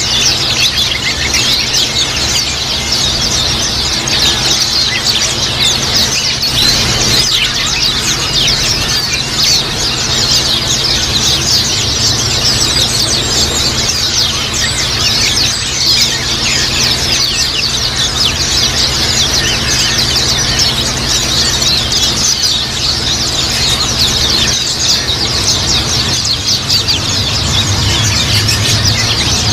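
A flock of white-eyes (pleci) chattering continuously, a dense mass of fast, high chirping calls, with a steady low hum underneath.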